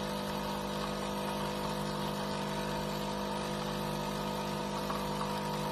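Automatic bean-to-cup coffee machine running with a steady mechanical hum.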